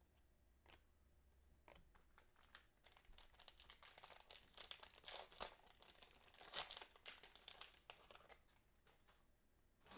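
Cellophane trading-card pack wrapper crinkling and tearing as it is opened by hand. A few light clicks come first, then a few seconds of dense crinkling.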